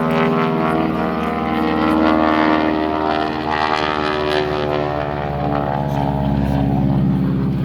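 Propeller aircraft engine running loudly and steadily.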